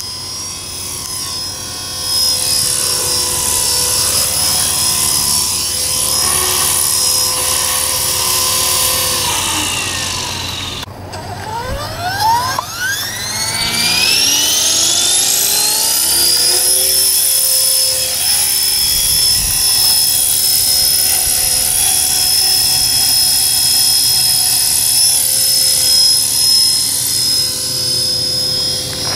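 E-flite Blade 400 electric RC helicopter's brushless motor and rotor whining steadily. About ten seconds in the whine falls and briefly dips, then rises steeply back up to a steady high pitch as the rotor spools down and up again. Wind noise buffets the microphone underneath.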